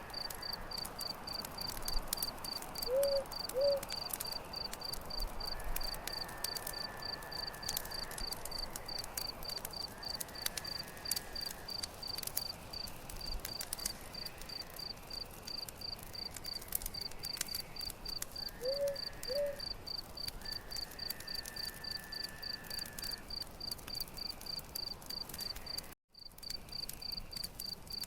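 A cricket chirping steadily, about three chirps a second, over the crackle and snap of a campfire. Twice, a pair of short low calls sounds, and the sound drops out for a moment near the end.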